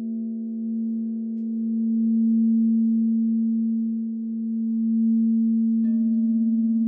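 Several crystal singing bowls ringing together in steady, sustained tones, the lowest one loudest, the sound slowly swelling. Near the end another bowl is struck and joins with a higher tone.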